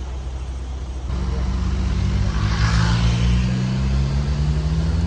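Vehicle engine idling close by: a steady low hum that comes in about a second in and creeps slightly up in pitch, with a short hiss in the middle.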